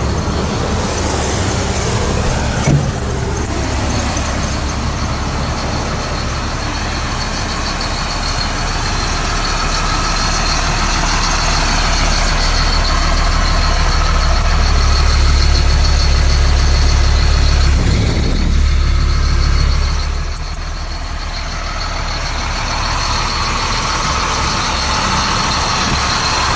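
2004 Blue Bird Vision school bus's diesel engine running with a deep rumble, building to its loudest a little past the middle, then easing off. A short click about three seconds in.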